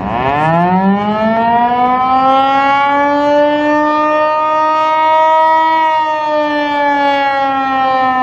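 Outdoor warning siren sounding a severe weather warning. Its pitch winds up over about the first second, then holds a loud, steady wail that sags slightly in pitch in the last couple of seconds.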